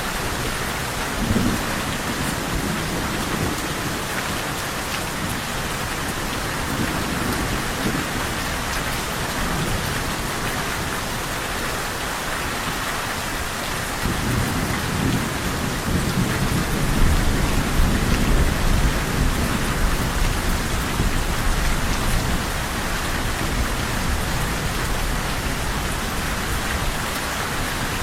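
Steady heavy rain, with thunder rumbling low beneath it. The rumble swells up about halfway through and lasts several seconds.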